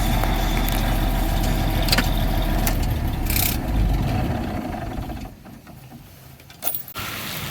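A diesel dump truck's engine runs steadily, with a short hiss of air about three seconds in. The engine sound falls away about five seconds in.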